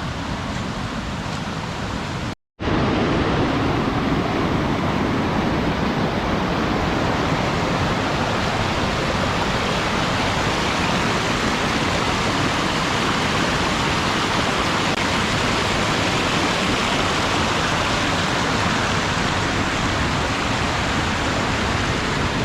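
Waterfall rushing with a steady, even roar of falling water. A short break about two and a half seconds in, after which it is slightly louder.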